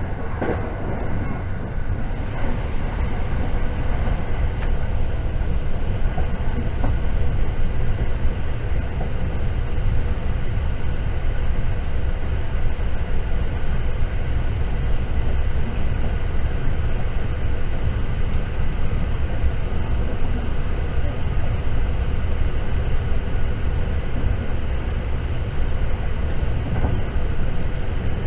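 Steady running noise heard inside a JR 681 series electric express train car moving along the line: a continuous low rumble from the wheels and track, with a faint steady whine above it.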